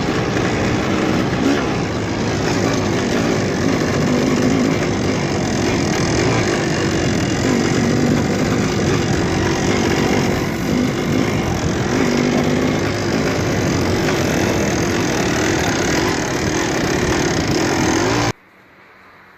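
Dirt bike engine running under load as the bike is ridden, its pitch wavering up and down; it cuts off suddenly near the end.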